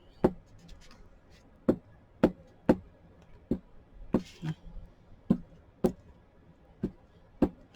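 About a dozen light, irregular taps and knocks of a glue stick and hands on paper laid on a tabletop, as paper is glued down, with a short rustle of paper about four seconds in.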